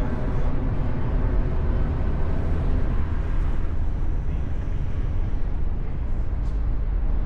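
Ford Mustang convertible driving: a steady low rumble of engine and road noise.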